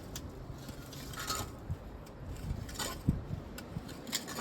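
A hand tool digging in dirt and working at a buried rock: scattered scrapes and light clinks, with one duller knock about three seconds in.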